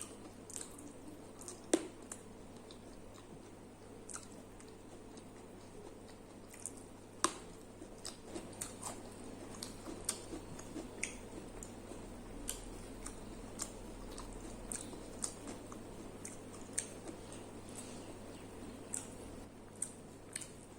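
A person chewing and eating up close: short, scattered wet clicks and smacks, few at first and more frequent from about a third of the way in, over a steady low hum.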